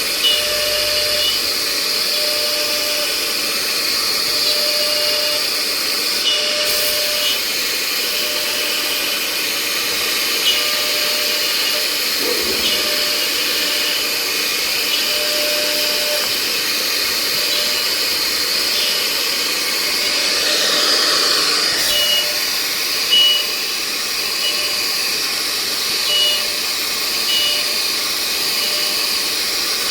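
CNC router running: a steady high-pitched spindle whine and hiss with tones that drop in and out, and a brief pitch sweep about two-thirds of the way through.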